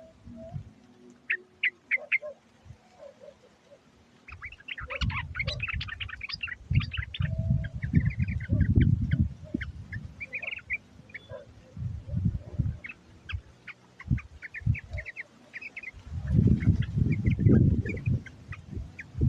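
Yellow-vented bulbuls (trucukan) calling in bursts of quick, chattering chirps, used as a lure call to draw in wild birds. Repeated bursts of low rumble, louder than the calls, come and go under them.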